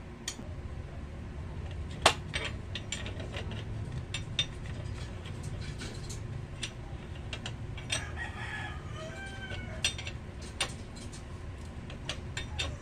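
Scattered metallic clicks and clinks of hand tools, including a ratchet, working on a motorcycle's chain adjuster, with one sharp clack about two seconds in. A rooster crows once in the background about eight seconds in.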